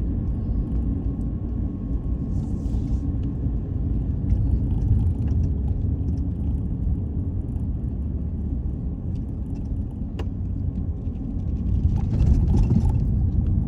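Car driving on a road, heard from inside the cabin: a steady low rumble of engine and tyres, with a single sharp click about ten seconds in and a brief louder swell near the end.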